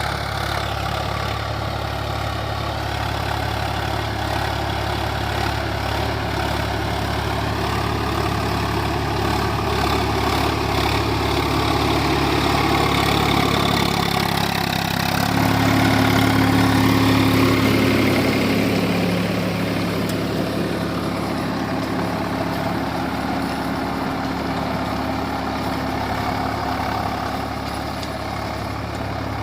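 Swaraj 744 XT tractor's three-cylinder diesel engine running steadily with a 7-foot Sonalika rotavator. About halfway through, the engine note changes and grows louder for a few seconds, then eases back.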